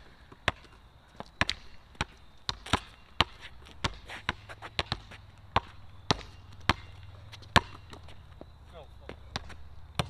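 Basketball being dribbled hard on a court: a string of sharp, irregular bounces, about one or two a second with some quick doubles, with a faint low hum underneath in the second half.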